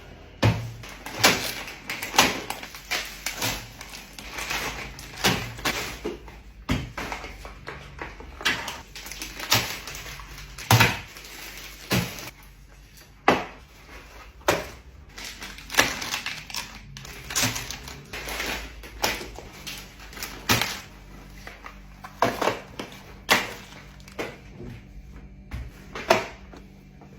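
Groceries being unpacked by hand: packaging crinkling and rustling, with many sharp clicks and knocks as items are handled and set down.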